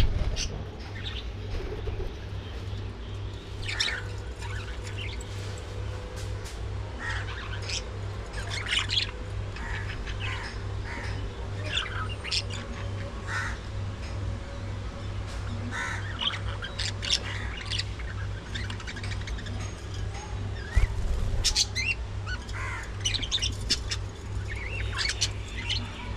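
A flock of budgerigars chirping and squawking, with many short calls overlapping at irregular moments, over a steady low hum.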